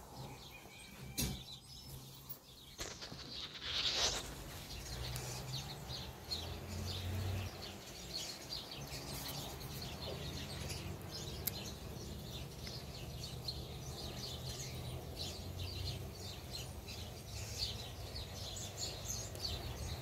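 Birds chirping outside, many short high calls repeating over a low steady hum, with one louder short call about four seconds in.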